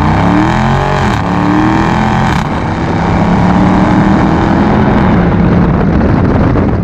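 Dodge Challenger R/T's HEMI V8 running loud through a Mopar cat-back exhaust under acceleration. The engine pitch rises, dips back about a second in and again about two and a half seconds in, then climbs steadily.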